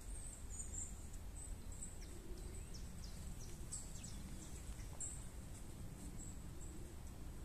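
Small songbirds calling in woodland: high, thin chirps and a run of short falling notes about two to five seconds in, over a steady low rumble.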